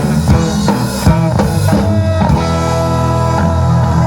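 Live rock-and-roll band playing, with evenly spaced beats in the first half, then held chords over a steady bass line from about two seconds in.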